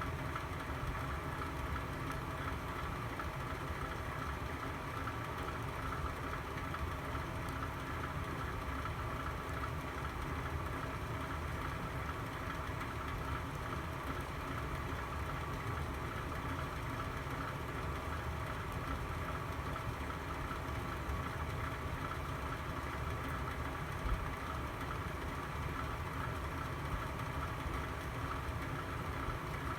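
Fireplace burning with a steady low noise and a faint hum, with almost no crackle; a single small pop comes about 24 seconds in.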